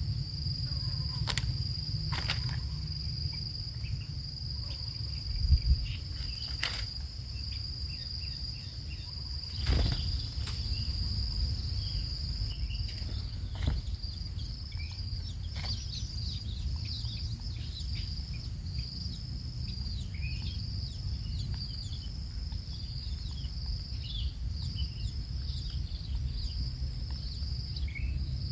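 A steady high-pitched insect drone with a low rumble beneath it and a few sharp clicks. From about halfway through, many short, high, falling chirps come in, fitting the calls of young long-tailed shrikes.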